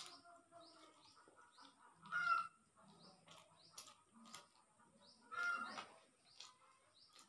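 Birds calling: a louder, honk-like call about two seconds in and again about five and a half seconds in, over repeated short, high chirps from small birds.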